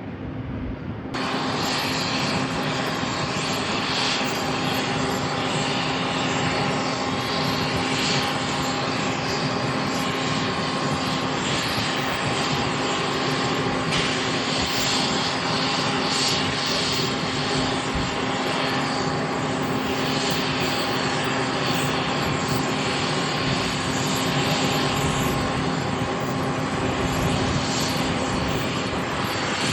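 Airliner engines running steadily and loudly, a broad rushing noise with several steady tones in it. The sound starts abruptly about a second in.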